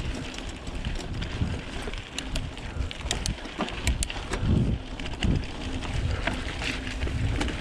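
A mountain bike being ridden on a dirt trail, heard from an action camera: wind on the microphone and rumble from the tyres, with frequent sharp clicks and rattles from the bike over rough ground.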